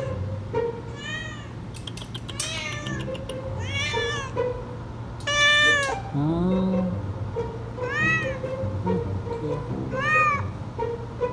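Calico cat meowing over and over, about six drawn-out meows that rise and fall in pitch, the loudest and longest near the middle.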